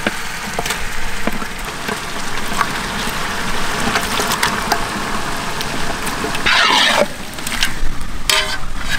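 Marinated chicken pieces going into hot oil with onions and tomatoes in a large pot, sizzling steadily, with a few short clicks of meat and utensils against the pot. A brief louder sound breaks in about six and a half seconds in.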